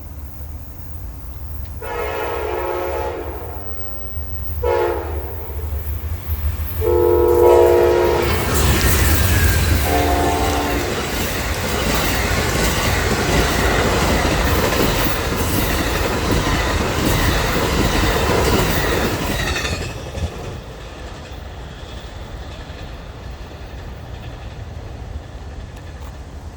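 A train's multi-chime air horn sounds the long-long-short-long grade-crossing signal as the train approaches, over the low rumble of the diesel locomotive. The train then rushes past with wheel clatter on the rails, and the noise dies down about twenty seconds in.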